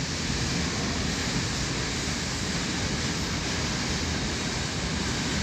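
Steady rushing background noise, even and unchanging, with no distinct events.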